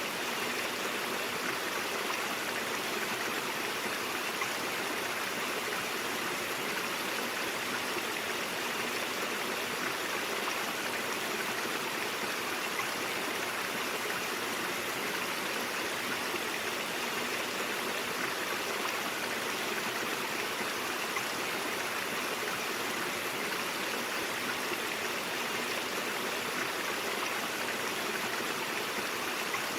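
A brook's water running steadily over rocks, an even rushing and burbling with no breaks or changes.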